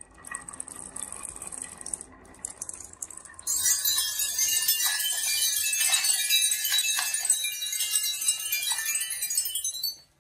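Marbles rolling and clattering down a wooden marble run, a light rattle at first and then, about three and a half seconds in, a loud dense cascade of many clicking, clinking marbles that cuts off suddenly near the end.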